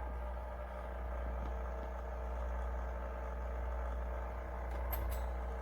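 De'Longhi La Specialista espresso machine's pump running with a steady hum while nothing comes out of the spout, with a couple of faint clicks near the end.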